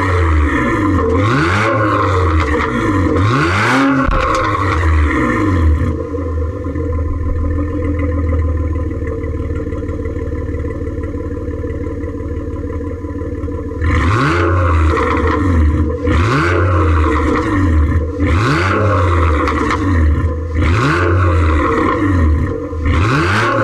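2009 Nissan Murano's 3.5-litre V6 through an exhaust with the catalytic converters and a resonator deleted. It is revved in quick blips for about six seconds, settles to a steady idle for about eight seconds, then is revved in short blips again.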